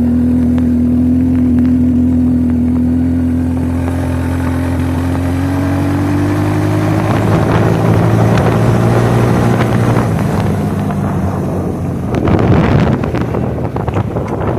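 Suzuki King Quad ATV engine running under way. Its pitch holds steady, then rises as it speeds up from about five to ten seconds in, before the engine note fades. A short burst of rushing noise follows near the end.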